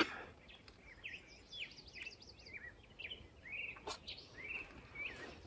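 Songbirds chirping in short, high, sweeping notes, about three a second, with a faint sharp click about four seconds in.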